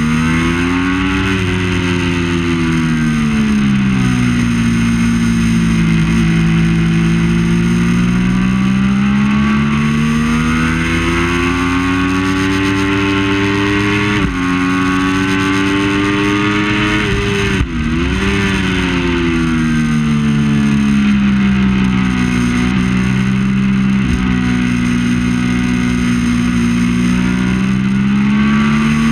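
Triumph Daytona 675 race bike's three-cylinder engine running hard on track, its note rising and falling as it accelerates and slows through the corners, with two quick breaks in the note about halfway through, at gear changes.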